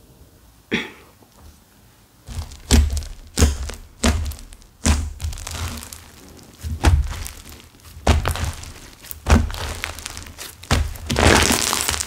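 Slime stiffened by added clay being pressed and squeezed by hand, giving irregular dull thunks with a crackle on each. A single tap comes about a second in, the thunks start about two seconds in, and a steady crackling begins near the end.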